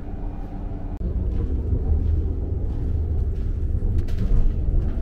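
Steady low rumble of an ICE 4 high-speed train running, heard inside the carriage. It grows louder about a second in, with a few faint clicks and rattles.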